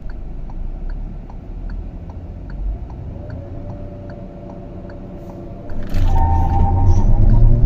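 Proton X50's 1.5-litre turbocharged three-cylinder engine running low, with a steady light ticking about twice a second. About six seconds in, the revs rise sharply and hold louder, as the engine is loaded against the brake for a launch-control start.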